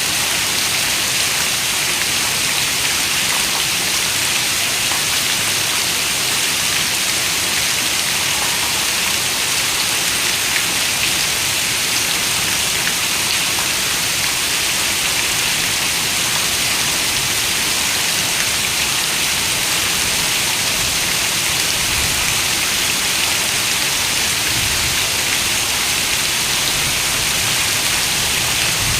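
Heavy rain falling on a window: a dense, steady hiss of raindrops that does not let up, with a few faint low rumbles near the end.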